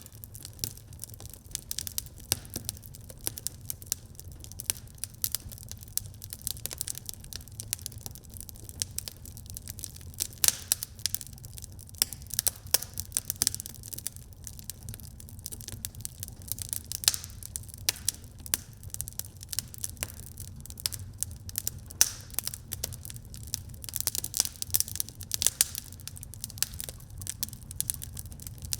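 Wood fire burning in a fireplace, crackling and popping with many small irregular snaps over a low steady rumble.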